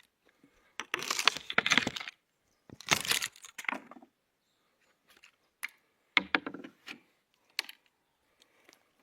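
Dry sticks cracking and snapping in three bouts of rapid crackles, with a few single sharp snaps between them. The loudest bouts come about a second in and around three seconds in.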